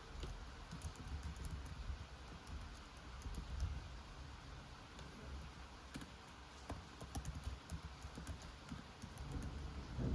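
Typing on a computer keyboard: irregular runs of key clicks over a low, steady background rumble that swells near the end.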